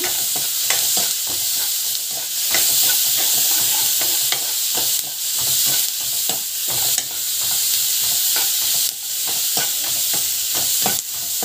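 Sliced onions sizzling steadily in hot oil in a pan while being stirred, with frequent clicks of the utensil against the pan.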